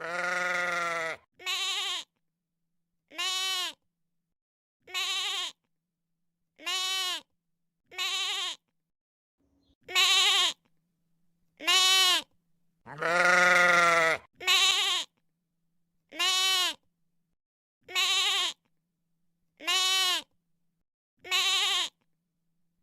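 Sheep bleating over and over, about one bleat every second and a half to two seconds, each short and arching in pitch. Two longer, deeper bleats stand out, one at the start and one about halfway through.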